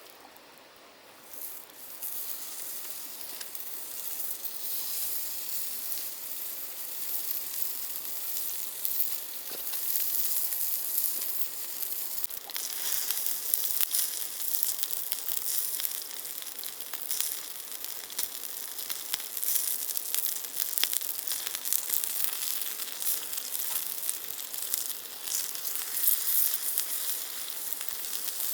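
Meat sizzling on a grill over glowing charcoal embers, a steady crackling hiss that starts about two seconds in.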